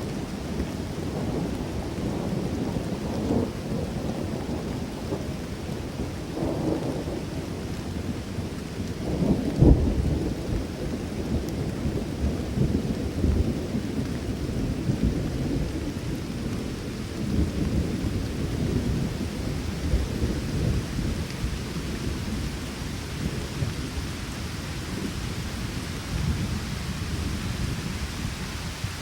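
Thunderstorm: steady rain with continuous rolling thunder rumbling, and a louder clap of thunder about ten seconds in.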